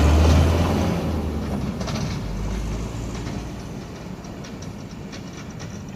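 Dump truck's engine rumbling and easing off over the first few seconds, followed by scattered knocks and rattles.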